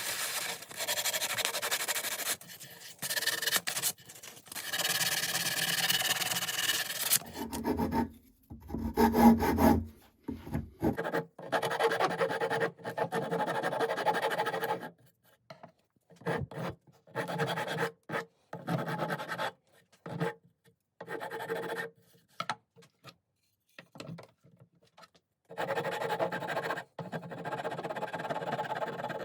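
A hand tool rasping and rubbing along a wooden hatchet handle in repeated strokes, heard in short stretches that cut off abruptly. Around eight to ten seconds in there is a heavier, lower-pitched stretch.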